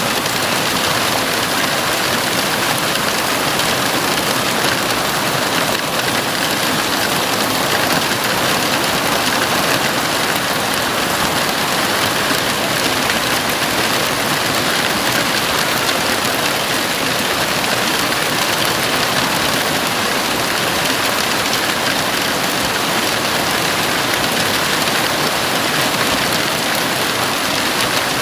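Heavy rain falling steadily on a house roof, a dense even hiss with no gaps or thunder.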